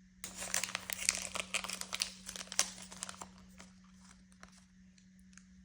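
Crinkly plastic packaging being handled and pulled open by hand to get at a tiny toy item. Dense crackling lasts about three seconds, followed by a few scattered light clicks.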